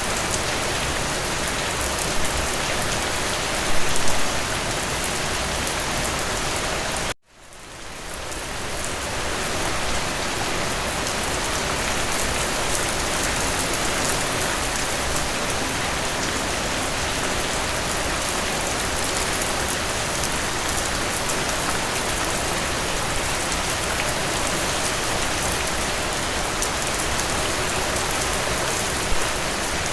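Steady, even rainfall pattering on a surface. About seven seconds in it cuts out abruptly, then fades back in over a couple of seconds.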